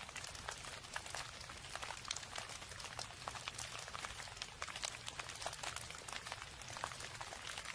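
Rain falling: a dense, irregular patter of drop impacts over a steady hiss, with a low rumble underneath.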